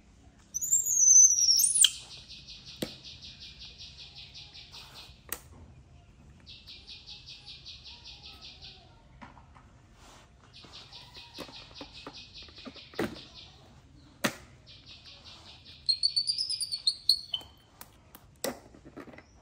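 High-pitched bird-like chirping: a loud sliding whistle about half a second in, then four runs of rapid, even trilling, and a rising-and-falling whistle near the end. Scattered light knocks are heard between them.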